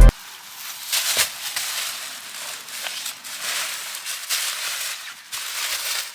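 Food sizzling in a hot pan, an irregular crackling hiss with scattered sharp pops.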